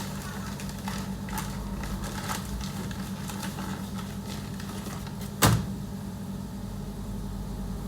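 Steady electrical hum of running kitchen equipment, with a few light clicks and one sharp knock about five and a half seconds in.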